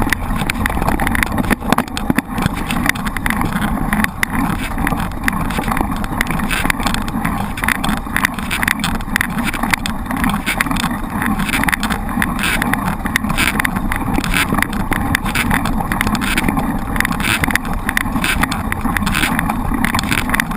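Mountain bike being ridden over rough ground, heard from a camera on the bike: a steady rumble of tyres and wind on the microphone, with constant irregular rattles and knocks.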